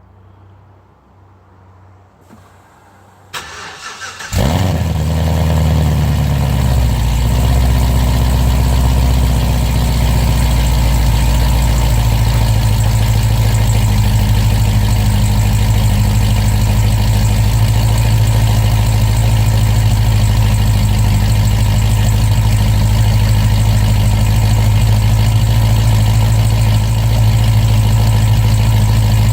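Cold start of a 2011 Cadillac CTS-V wagon's supercharged 6.2 L V8, fitted with a Stage 2 cam, long-tube headers and an X-pipe into stock mufflers. The starter cranks briefly about three seconds in and the engine catches, flaring up loudly. It then settles into a steady cold idle, its note changing once about twelve seconds in.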